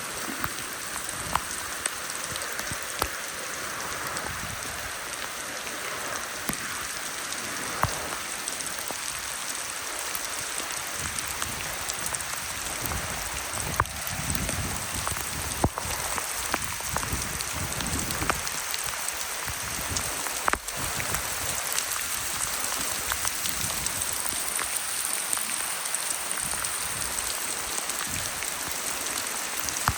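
Steady rain falling, with occasional louder single drops tapping sharply.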